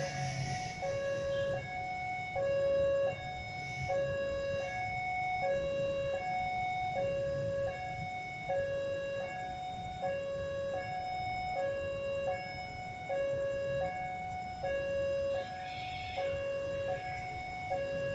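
Two-tone electronic warning alarm, a higher and a lower tone taking turns evenly, about one high-low pair every second and a half, over a low rumble. This is typical of an Indonesian railway level-crossing alarm warning that a train is approaching.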